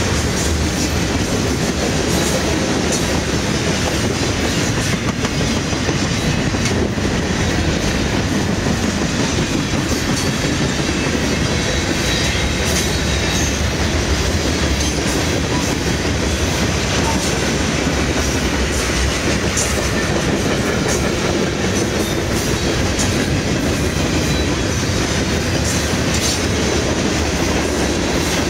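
Freight cars of a mixed freight train rolling past: a steady rumble of steel wheels on rail, with scattered sharp clicks and clanks.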